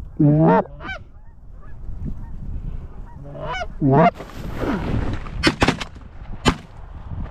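Geese honking: a loud, close pair of swooping honks near the start, a short one just before a second in, and another loud run about three and a half seconds in. After that comes a rustling stretch with a few sharp clicks.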